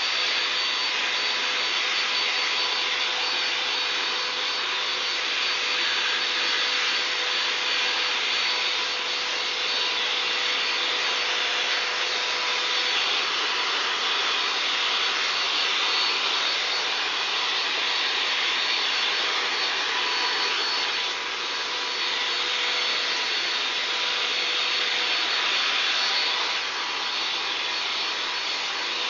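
Greenworks electric leaf blower running steadily: a rush of air with a steady high whine, dipping briefly a couple of times.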